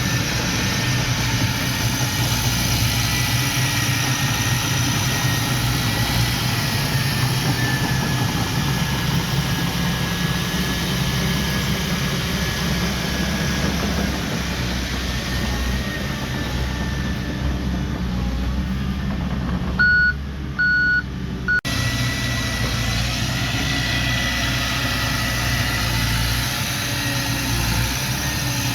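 Heavy diesel earthmoving machinery running steadily, with a faint high whine over the engine. About two-thirds through, a backup alarm sounds three short beeps as a machine reverses.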